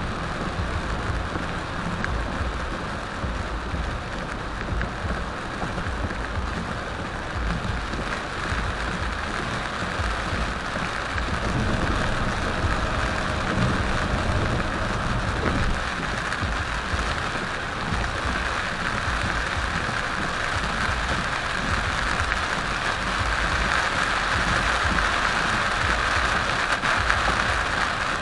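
Heavy rain pelting a moving car, heard from inside the cabin through the dashcam, over a steady low road rumble. The rain grows louder in the second half.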